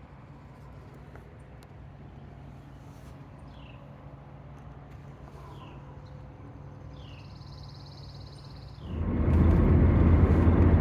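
Quiet outdoor ambience with a steady low hum and a few short, high, falling bird chirps, plus one buzzy trill near the middle. About nine seconds in, it cuts suddenly to loud, rumbling road noise from inside a moving car.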